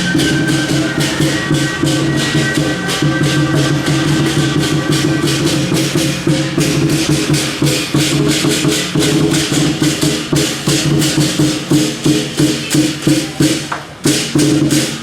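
Temple procession music: fast, even percussion strokes over steady held tones, with a brief drop about a second before the end.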